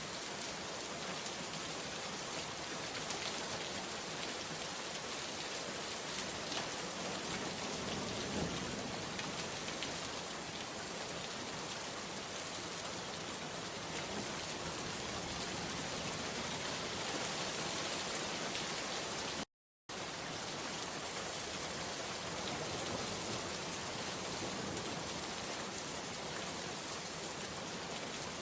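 Steady rain falling, an even dense hiss with faint scattered drop ticks. It cuts out to dead silence for about half a second roughly two-thirds of the way through, then resumes unchanged.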